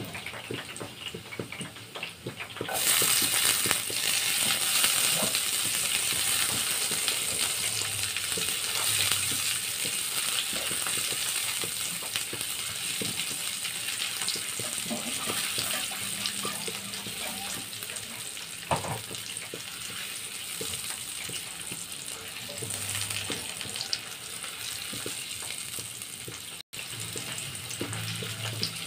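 Chopped garlic and onion frying in hot oil in a stainless steel wok: a light crackle at first, then about three seconds in the sizzling jumps up loud as the onion goes in, and slowly fades while a spatula stirs the pan.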